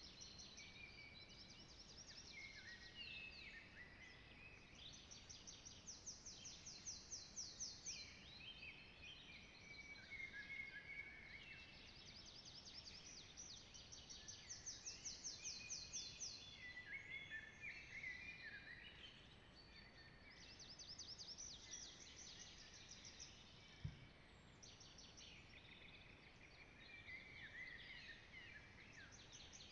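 Songbirds singing in a spring forest: overlapping phrases of rapid high trills and short falling notes, each phrase a few seconds long and repeated throughout, over faint background hiss. A single soft low thump about two-thirds of the way through.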